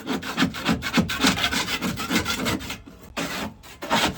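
Scraper rasping back and forth in quick strokes, about four or five a second, against a nesting-box floor to chip off frozen, dried-on chicken droppings, then two slower single scrapes.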